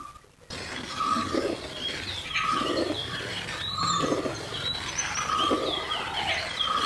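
A bird calling outdoors, a short clear note repeated about every second and a half, with higher chirps between, over the slosh of a steel ladle stirring liquid payasam in an aluminium pot.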